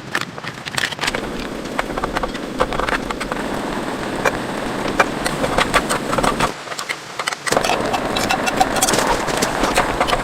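Rain pattering on a polyethylene stretch-film shelter: a dense run of sharp ticks of drops over a steady rush, dipping briefly about two-thirds of the way through.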